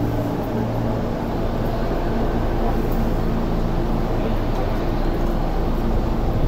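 Tobu 10030 series commuter train standing at a platform with its doors open: a steady low hum from the train's onboard equipment over a haze of station and cabin noise.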